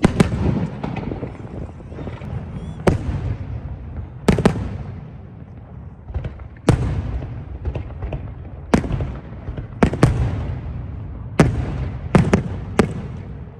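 New Year fireworks exploding: about a dozen sharp bangs at irregular intervals, some in quick pairs, each trailing off in a rumbling echo.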